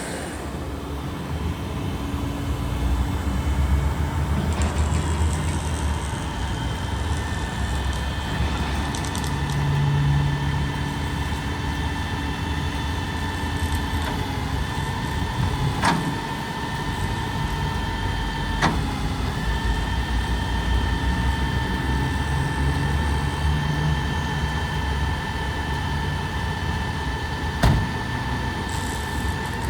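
Hino L7 grapple truck's diesel engine running steadily, with a steady whine over the rumble and a few sharp knocks or clanks.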